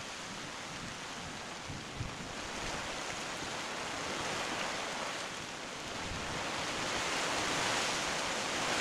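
Rain falling in a steady hiss that grows louder from about six seconds in as the shower arrives, with a brief bump of wind on the microphone about two seconds in.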